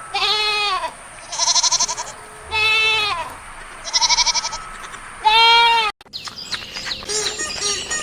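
Bleating livestock: five loud bleats in about six seconds, alternating long, smooth bleats that rise and fall in pitch with shorter, quavering bleats. The bleating stops abruptly about six seconds in, and a busier run of short, high calls follows.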